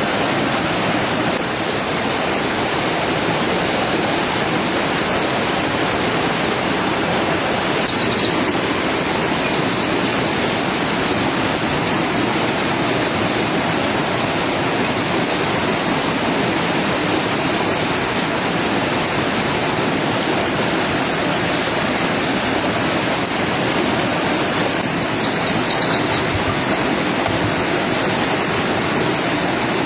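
Steady heavy rain falling, an even hiss that doesn't let up.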